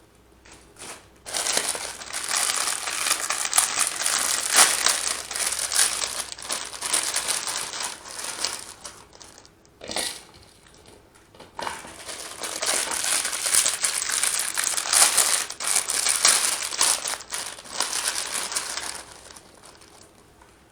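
Plastic Indomie instant-noodle packets crinkling loudly as they are opened and handled, in two long stretches with a short pause and a sharp click between them.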